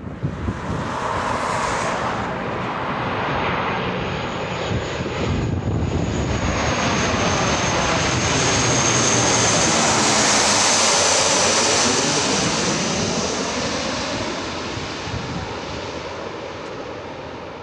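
A military display aircraft passing overhead: engine noise with a high whine that builds to a peak about ten seconds in and then fades away.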